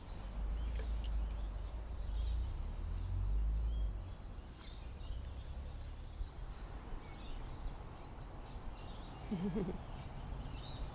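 Outdoor ambience with a low rumble on the microphone for the first four seconds, faint bird chirps further on, and a short wavering call about nine and a half seconds in.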